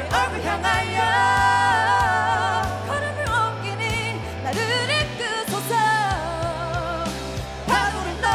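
A Korean gospel pop song: a voice singing the chorus over live band accompaniment with a bass line.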